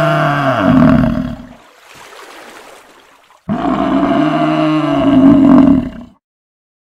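Cow mooing: two long, low moos. The first is already under way and fades out about a second and a half in; the second starts about three and a half seconds in and lasts about two and a half seconds.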